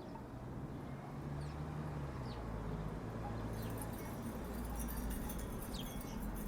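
Wooden tiki wind chimes knocking together in the breeze, with clicks that come thicker in the second half. Short bird chirps come through, over a steady low hum from a distant engine.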